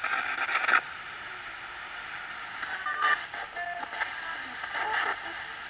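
Ghost-hunting spirit box radio sweeping through stations: a steady hiss of static broken by short, clipped fragments of voices, louder in the first second and with snatches about three seconds in and again near the end.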